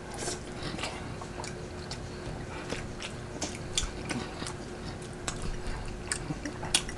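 Close-miked chewing: a person eating, with many small wet mouth clicks and smacks scattered throughout, over a faint steady hum.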